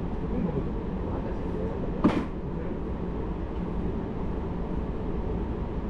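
Running noise of a JR Hokkaido Hakodate Liner local train heard from inside the carriage: a steady low rumble of wheels on rail. A single sharp knock about two seconds in.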